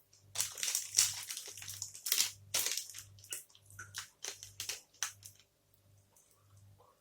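Close-up wet chewing and crunching of a Gainomax toffee protein bar, irregular and crackly, dying away about five seconds in.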